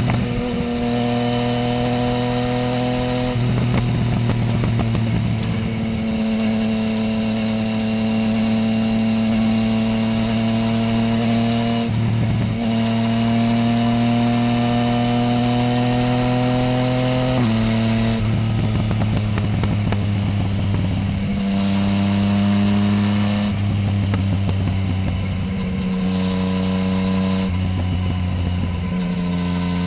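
Yamaha Tracer 900 GT's inline-three engine through a full Roads Italia exhaust with the dB-killer removed, heard on the move. The engine note holds a fairly steady pitch with a slow rise, then steps abruptly several times with brief breaks, as with gear changes, more often in the last third.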